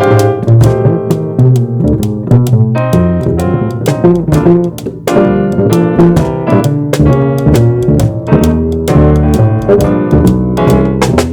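Jazz trio playing: keyboard, walking bass and drum kit, with the drums keeping a steady beat of about three strokes a second.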